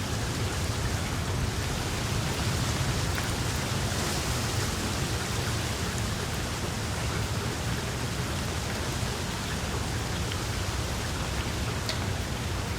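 Wood fire burning in a fireplace: a steady low rush from the flames with a few faint crackles.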